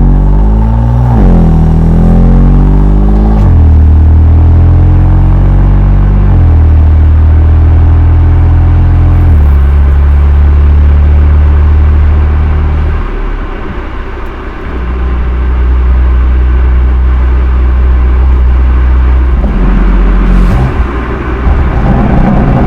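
BMW M2 Competition's twin-turbo straight-six exhaust, through the stock muffler, accelerating through the gears. The pitch climbs and then drops at each upshift before settling into a steady drone, with a brief lift-off in the middle. The sound is slightly distorted from overloading the microphone.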